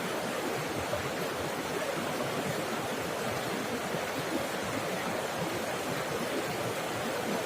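Water falling and flowing steadily, a continuous even rushing and babbling with no change in strength.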